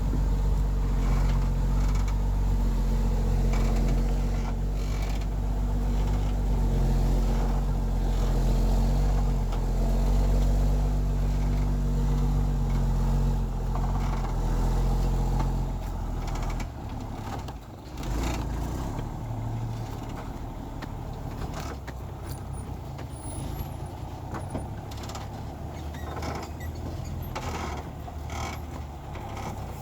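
Heavy truck engine running steadily, then dropping off sharply about halfway through to a much quieter low rumble, with scattered creaks and knocks.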